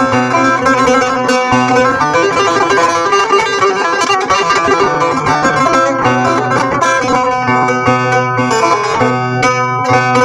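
Bağlama (saz) played solo and improvised: a fast plucked melody over a steady low drone string.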